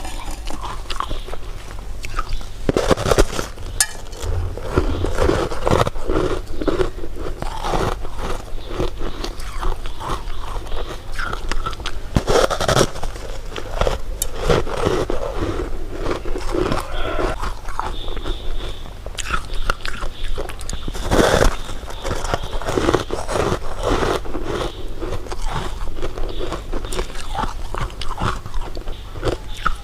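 Close-miked mouth sounds of a person eating: irregular bites and chewing throughout, with louder bites about 3, 12 and 21 seconds in.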